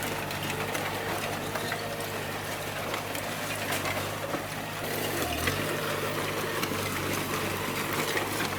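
Bulldozer diesel engine running steadily, its pitch dipping briefly a little past five seconds in and then recovering, over a constant crackle with scattered sharp clicks.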